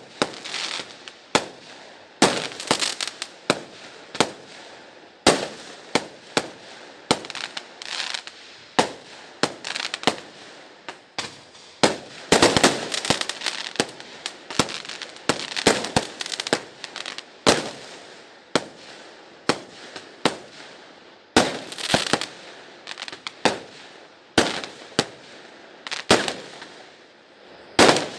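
Many fireworks going off at once: a steady barrage of sharp bangs and booms at irregular intervals, several a second at times, with crackling between them.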